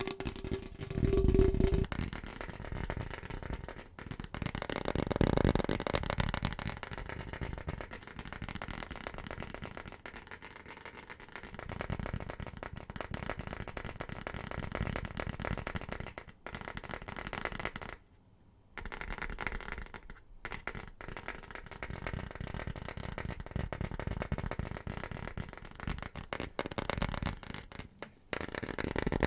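Very fast tapping on a run of household objects, the rapid clicks changing in tone every few seconds as one object gives way to the next, with a brief break about 18 seconds in.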